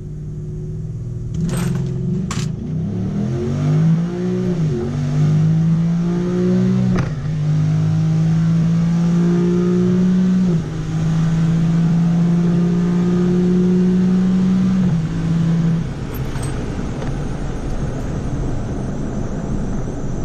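Ford F-150's 5.0 Coyote V8 at full throttle down the quarter mile, its pitch climbing through the gears with three automatic upshifts. It eases off about three-quarters of the way through, as the run ends.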